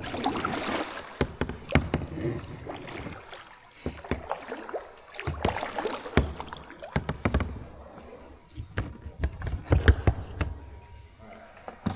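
Kayak paddles dipping and splashing in water, with irregular knocks of paddles against the kayaks' hulls.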